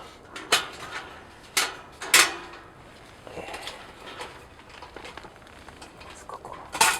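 Handling sounds from a Corona kerosene heater while it is being lit: sharp clacks and knocks about half a second, one and a half and two seconds in, and again near the end, with light rustling between.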